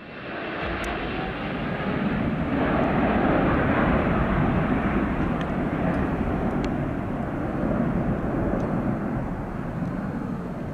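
Jet airliner engine noise: a dense, steady rushing sound that swells in over the first two seconds, holds, and eases slightly toward the end.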